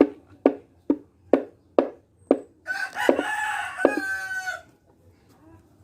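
A rooster crowing once for about two seconds, a little under halfway in, after a run of six sharp, evenly spaced clicks at about two a second.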